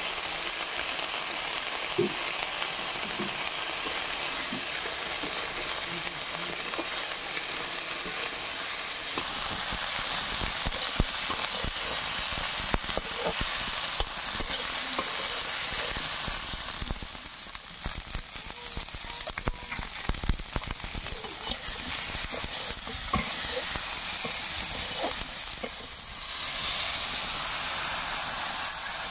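Cauliflower pieces sizzling in hot oil in a large steel wok, with a metal spatula scraping and knocking against the pan as they are stirred.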